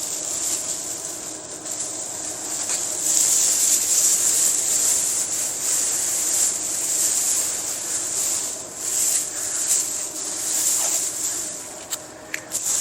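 Plastic sheeting crinkling and rustling as it is folded over an engine, over a steady hiss, with a few sharp clicks near the end.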